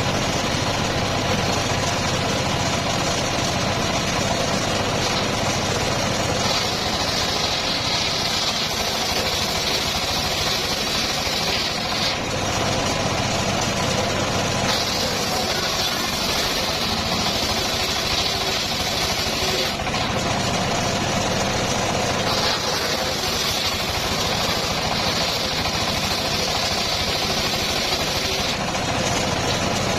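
Homemade engine-driven circular sawmill running steadily, with a higher whine coming in three times for several seconds each.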